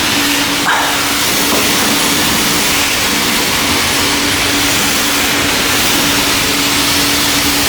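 High-pressure car wash spray wand spraying spot-free rinse water: a steady, loud hiss of spray with a low steady hum underneath.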